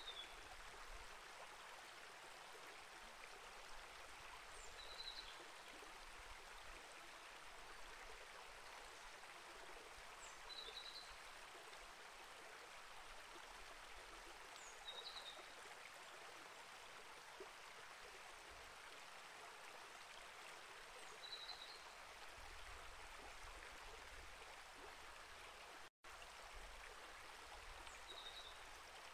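Small rainforest creek flowing with a faint, steady rush of water, and a bird's short high chirp repeating about every five seconds. A momentary dropout of the sound near the end.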